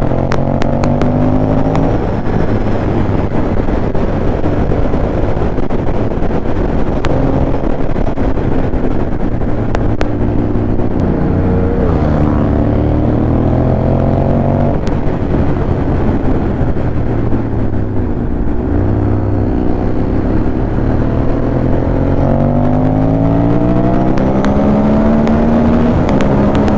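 Ducati Monster 821's L-twin engine under way on the road, its pitch climbing and dropping again and again as the bike accelerates through the gears, with wind rushing over the microphone.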